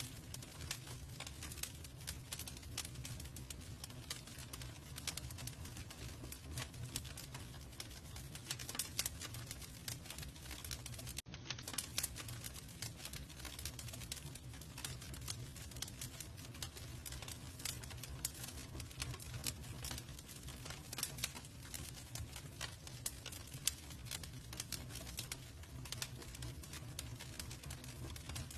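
Campfire burning: wood crackling with many small irregular pops and snaps over a steady low rumble, with a momentary break about eleven seconds in.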